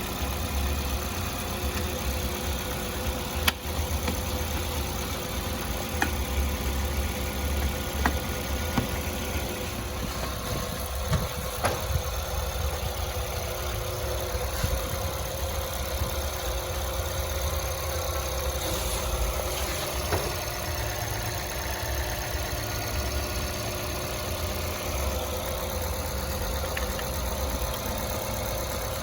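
Toyota Fielder hybrid running with its A/C on during a refrigerant recharge: a steady low hum with a steady tone above it, broken by a few sharp clicks.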